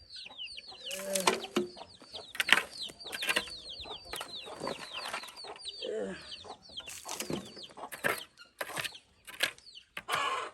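Young poultry peeping constantly in short falling chirps, with the odd low hen cluck, over sharp scrapes and knocks of a spade scooping out the old litter of the poultry house.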